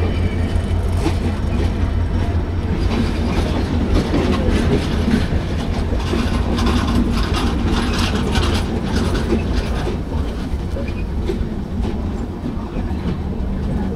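Bangladesh Railway intercity passenger coaches rolling past close by as the train pulls into the station: a steady low rumble with wheels clicking and knocking over the rail joints, easing off slightly near the end.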